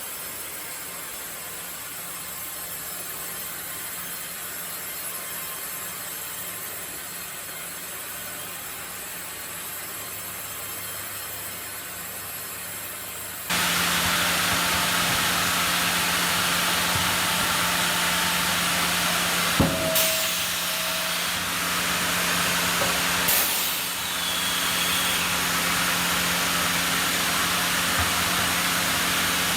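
Sawmill machinery running with a steady noisy hiss and hum. It jumps suddenly louder a little under halfway through, and two sharp knocks stand out later on.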